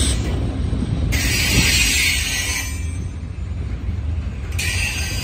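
Freight cars rolling past on jointed track: a steady low rumble of steel wheels on rail, with two bursts of high-pitched wheel squeal, one lasting about a second and a half early on and a shorter one near the end.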